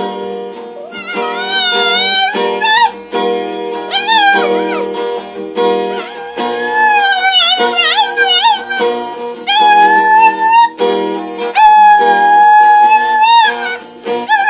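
A dog howling along to strummed acoustic guitar, in long wavering held notes that slide up and down, in phrases of a second or two.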